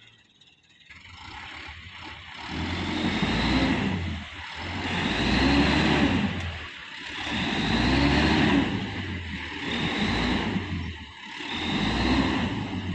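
Bogged-down, overloaded sand dump truck's diesel engine revving hard and easing off about five times in a row, pitch rising and falling with each push, as it strains to pull free.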